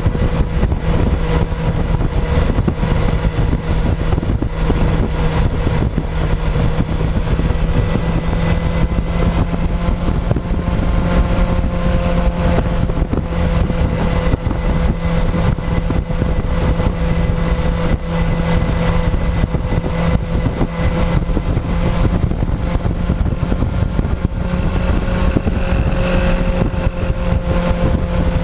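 Motorcycle engine running at a steady riding speed, heard close up from a tank-mounted camera, over a constant rush of wind and road noise. The engine note stays nearly level, rising slightly now and then.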